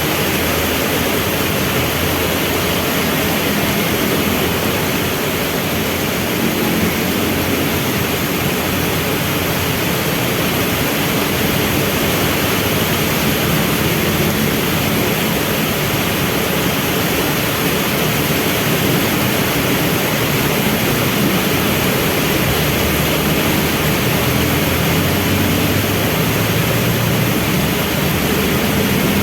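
Heavy rain falling steadily, with the low rumble of vehicle engines in traffic underneath it.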